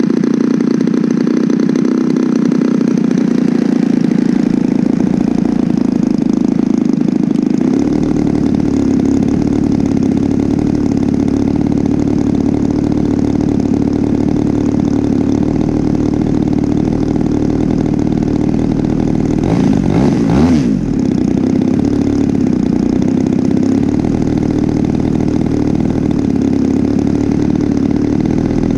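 DLE 35RA single-cylinder two-stroke gasoline engine on a radio-controlled model aerobatic plane in flight, running steadily. About two-thirds of the way through, the engine's pitch sweeps as the plane passes close by. The engine has a freshly rebuilt top end.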